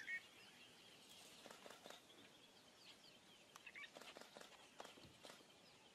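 Faint bird chirps in quiet outdoor surroundings, with a short louder chirp right at the start and a few soft taps.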